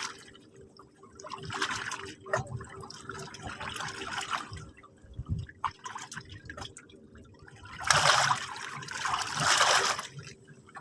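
Sea water washing in and draining back over the shore in repeated surges, with trickling and splashing; the biggest wash comes about eight seconds in.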